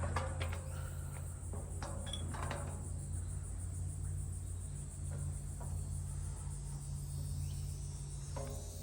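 Steady high-pitched chorus of crickets, with a low steady rumble underneath.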